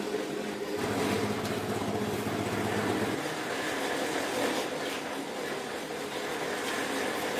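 An engine running steadily, with a low hum that drops away about three seconds in.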